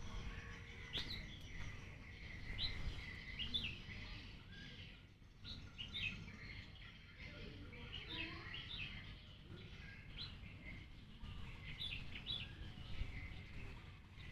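Small birds chirping: short, quick calls repeated every second or so, over a low rumble.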